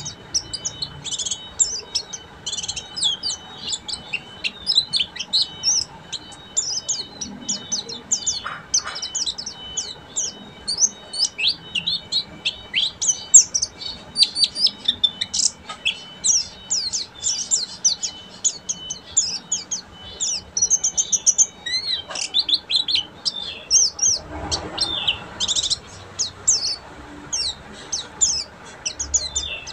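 White-eye (pleci) singing a fast, unbroken twittering song of sharp high notes in quick succession.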